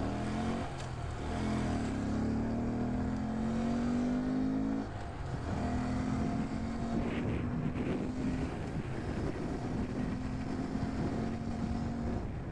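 Honda Grom's small single-cylinder engine pulling away and accelerating. Its pitch climbs steadily, drops at a gear change about five seconds in, climbs again and drops once more later on.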